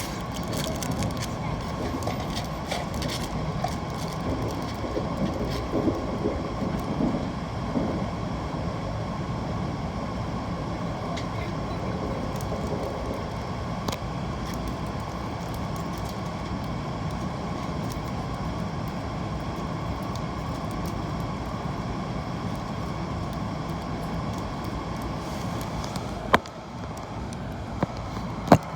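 Joetsu Shinkansen train running at speed, heard inside the passenger car: a steady rumble and rush of running noise. A few sharp clicks cut through it, and near the end the noise dips briefly between two loud clicks.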